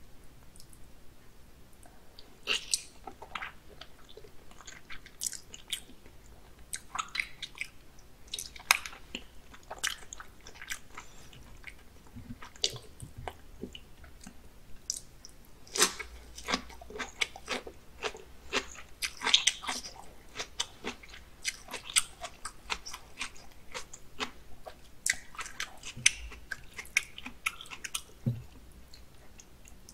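A person biting and chewing raw salmon sashimi: many short, irregular mouth smacks and clicks.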